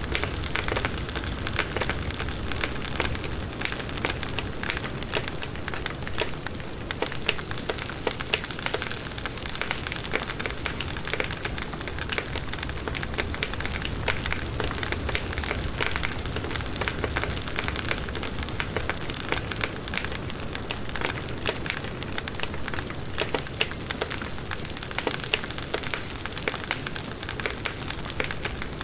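Firewood burning in a campfire, with a steady hiss of the flames and many small crackles and pops.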